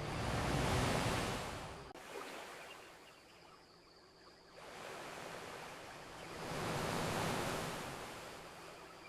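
Ocean waves washing onto a beach: two surges, one peaking about a second in and the next building after about four and a half seconds, each rising and falling away.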